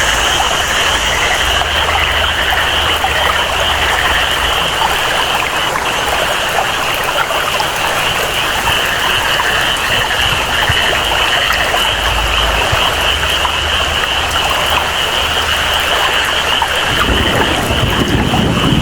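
Rainforest ambience: steady rain with a continuous high-pitched jungle chorus over it. About seventeen seconds in, a deeper rush of flowing water comes up under it.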